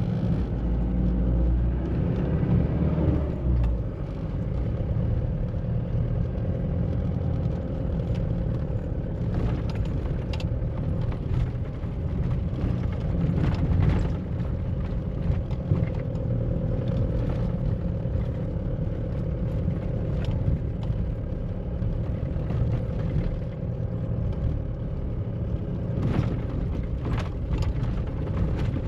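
A Mahindra Bolero SUV being driven, heard from inside the cabin: its diesel engine and road noise make a steady low rumble with a constant hum. There are a few brief knocks along the way.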